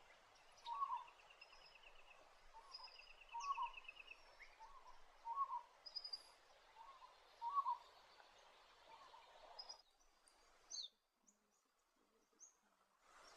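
Wild birds calling: a low hooting note repeated about once a second, with higher chirps and a trill above it over a steady background hiss. Near the end the hiss drops away, leaving a few scattered chirps.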